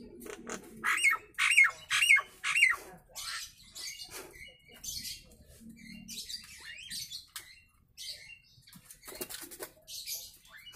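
Nias hill myna calling: four loud, hooked whistled notes in quick succession about a second in, then a run of varied rasping chatter, clicks and short whistles.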